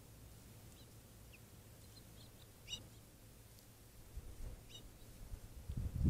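Scattered faint, short bird chirps, the clearest one a little under three seconds in and another near five seconds, over a low steady rumble that grows louder at the very end.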